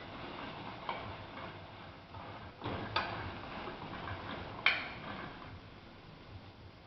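Pinhão seeds roasting in a dry pan and being stirred with a spoon, knocking against the pan and each other in a few scattered sharp clicks and clacks. The loudest comes a little under five seconds in.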